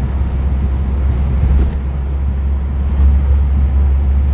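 Classic car's engine and road noise heard from inside the cabin while driving, a steady low drone, with a brief click about halfway through.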